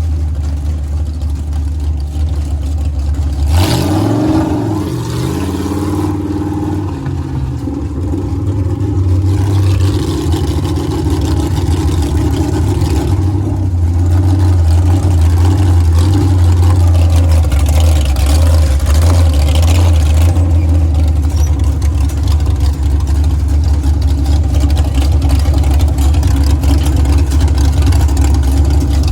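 Monster truck engine running loud and steady, its pitch swinging up and down as it revs about four seconds in, then settling into a heavy drone.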